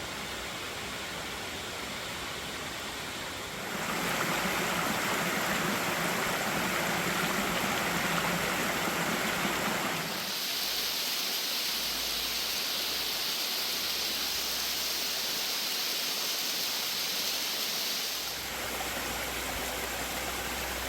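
Rushing water of a tall waterfall and its creek, a steady roar. It swells about four seconds in, turns to a higher hiss about ten seconds in, and eases near the end.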